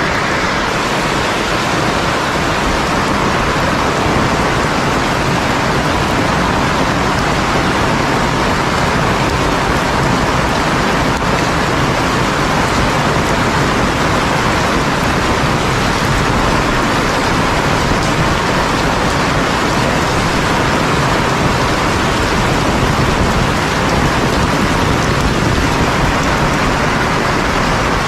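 Heavy rain pouring down steadily, a dense, unbroken hiss.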